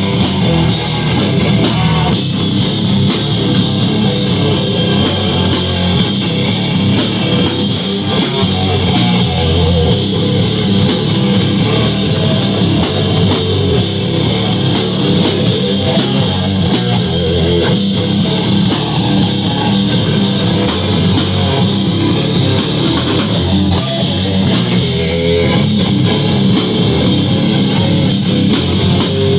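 A rock band playing live, with loud electric guitars over a full drum kit.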